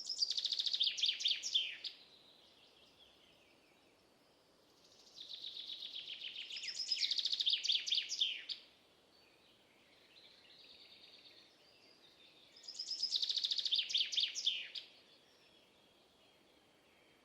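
A songbird singing three songs of rapid, high trilled notes, each lasting two to four seconds, several seconds apart, with fainter bird calls in between.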